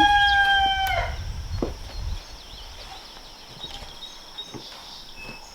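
A rooster crowing: the long held end of the crow, falling slightly in pitch, stops about a second in. After it come a few faint knocks and steps.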